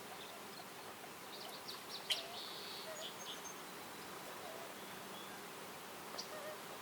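Woodland ambience: scattered short, high bird chirps over a steady soft hiss, with a sharp tick about two seconds in and another near the end.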